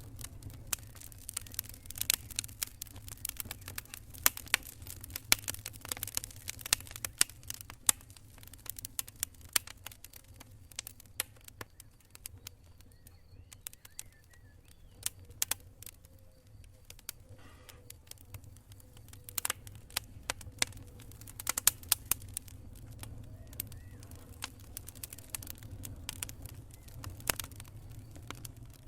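Burning wood campfire crackling, with sharp pops that come in clusters and thin out for several seconds around the middle, over a steady low rumble.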